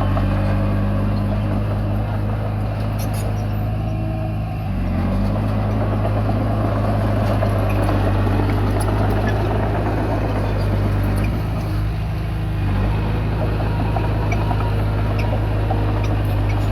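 Komatsu D20P bulldozer's diesel engine running steadily under load while pushing soil, with mechanical clatter over it. The engine note dips briefly twice, about four and a half seconds in and again near twelve seconds in.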